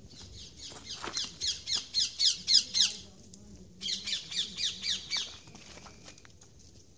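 A bird calling in two runs of quick, high, downward-slurred notes, about four a second. The first run lasts about three seconds; after a short pause the second lasts about a second and a half.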